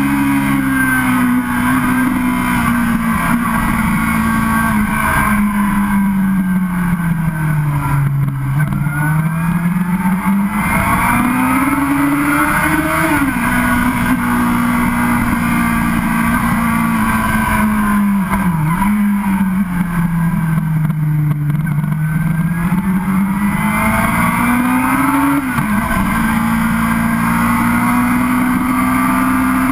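Sport motorcycle engine heard from on board, running continuously under way; its pitch sinks slowly and climbs back twice as the throttle is rolled off and on again, with a few quick jumps in pitch along the way, over steady wind noise.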